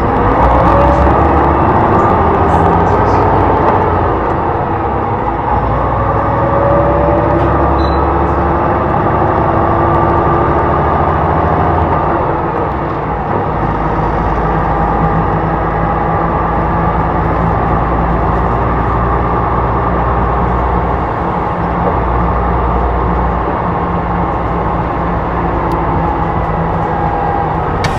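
Hyundai Blue City low-floor hybrid bus driving, its G240 engine and electric drive motor running steadily with a low drone. A drive whine glides up and down in pitch during the first several seconds, then steadies.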